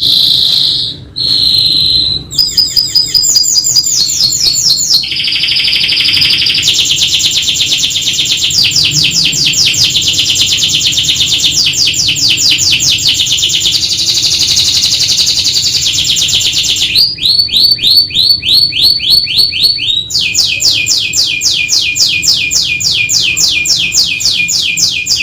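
Domestic canary singing without pause: fast trilled rolls, switching every few seconds between high and lower-pitched phrases, with a stretch of quick falling sweeps about two-thirds of the way in.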